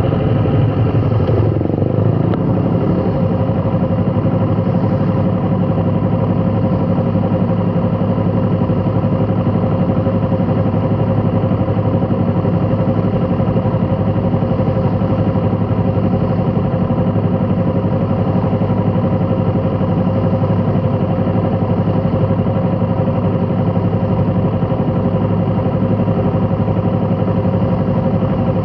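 A vehicle engine running steadily. Its pitch falls in the first couple of seconds, then it holds an even, unchanging note, like idling or creeping along.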